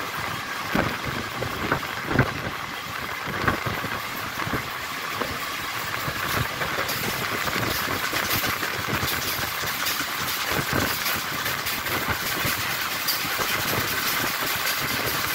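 Steady running noise of a train with a few sharp knocks and clanks in the first seconds, getting a little louder from about seven seconds in.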